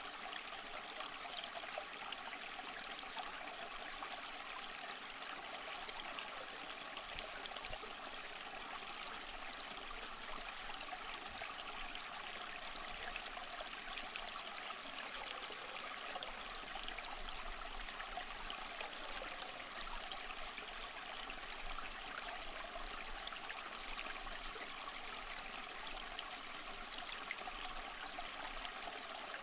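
Stream water flowing and trickling steadily, an even rushing and babbling without pauses.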